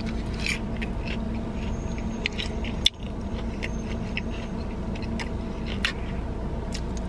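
Close-up chewing and biting of food, with scattered small crunches and mouth clicks, over a steady low hum. One sharper click about three seconds in.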